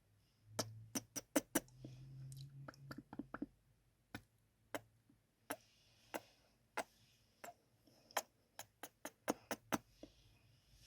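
Close-miked ASMR kissing sounds: a run of about two dozen sharp lip smacks, irregularly spaced, in quick clusters near the start and again near the end.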